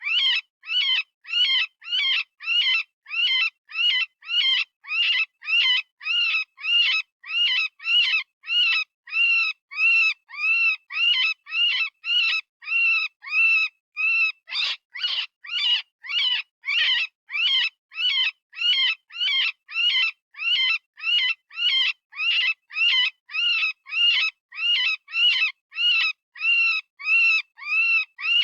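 Software-generated rabbit distress call: short, high squealing screams repeated evenly about twice a second, each one rising and then falling in pitch. This is the sound of a rabbit in pain or fear, as used for predator calling.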